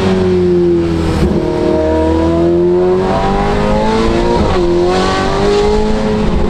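Ferrari F8 Tributo's twin-turbo V8 running through a full catless Ryft exhaust while driving. The engine pitch sinks, then climbs, with quick breaks about a second in and about four and a half seconds in, as at gear changes.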